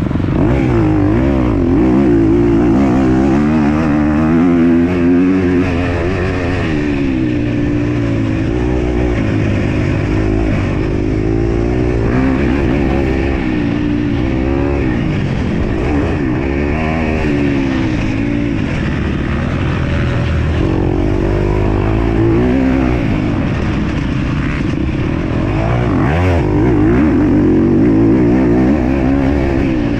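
MX2 motocross bike engine running hard under race throttle, its pitch rising and falling every second or two as it is revved up and backed off over and over.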